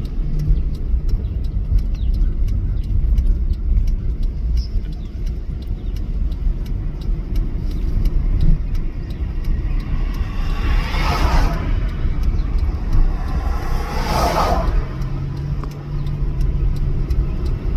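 Steady low road and engine rumble inside a moving car, with two brief whooshes of rushing noise about two-thirds of the way through.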